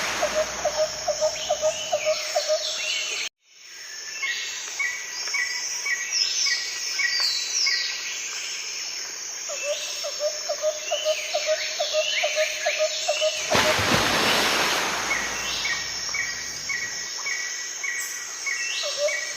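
Outdoor bush ambience with birds calling: runs of short repeated notes and quick falling chirps, over a fast pulsing lower call. The sound drops out briefly a few seconds in, and a rush of broad noise passes through about two-thirds of the way along.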